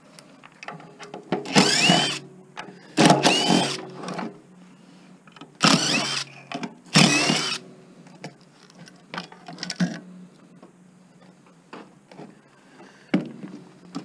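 Power drill/driver run in four short bursts, whining upward in pitch each time as it spins up, backing out nut screws. Light clicks and rattles of parts come between the bursts.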